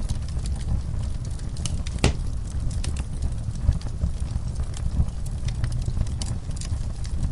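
Crackling wood fire: scattered sharp pops and snaps over a steady low rumble, with one louder snap about two seconds in.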